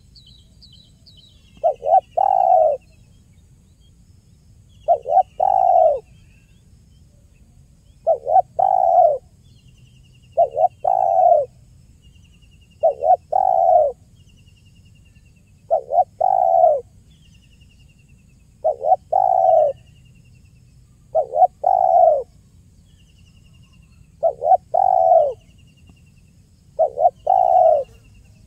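Spotted dove (tekukur) cooing: a short phrase of two or three low coo notes, repeated about every two and a half to three seconds, some ten times. Faint high trills of a smaller bird sound in the background.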